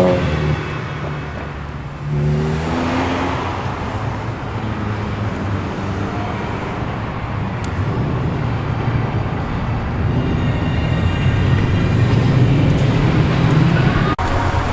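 Performance car engines pulling out one after another through their exhausts. One revs up with a rising note about two seconds in, and a deep, growing exhaust rumble follows in the second half.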